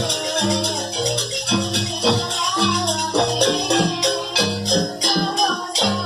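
Live jaranan music: held, pitched melodic notes over a steady beat of rattling percussion.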